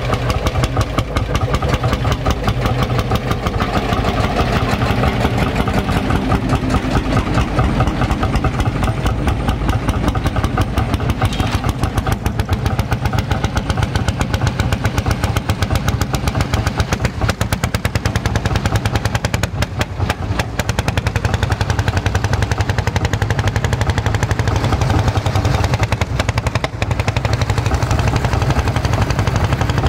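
Vintage tractor engine running with a rapid, even chug of firing strokes.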